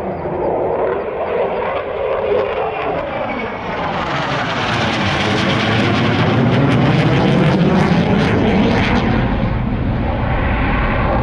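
A fixed-wing military aircraft passing by with its engines running. The sound swells about four seconds in and stays loud, with a swirling, phasing quality as the aircraft passes.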